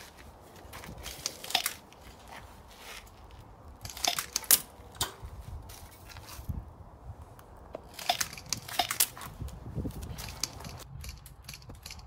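Dry leaves and twigs crunching and snapping underfoot, in irregular clusters of sharp cracks over a low rumble.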